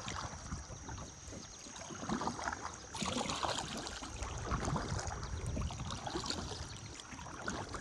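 Kayak paddle strokes splashing and water dripping off the blade, over a steady river-and-wind hiss that grows fuller about three seconds in.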